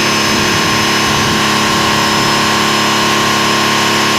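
An engine idling, a constant even hum with several steady tones.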